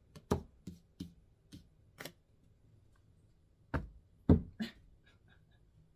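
Cards being handled and shifted about while searching through a spread: about eight scattered sharp taps and clicks, the loudest a little past four seconds in.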